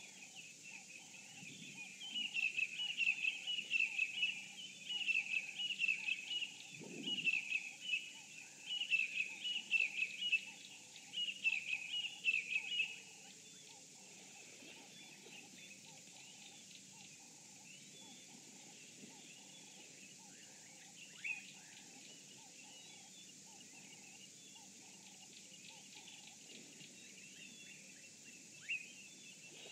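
Wild birds singing: a loud run of repeated chirping phrases from about two seconds in until about thirteen seconds, then fainter scattered calls with two short sharp calls later on, over a faint, even pulsing chorus.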